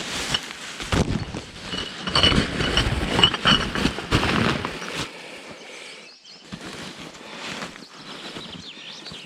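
Rustling and crinkling with small clicks as a bag of rubbish is handled and strapped onto a motorcycle, busiest over the first five seconds and then quieter, with occasional rustles.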